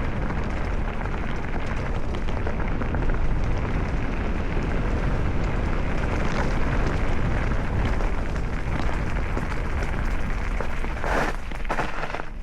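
Mountain bike rolling downhill on a rough path: a steady crackle of tyres over dirt and gravel with a low rumble of wind on the microphone, and a couple of louder rattles near the end.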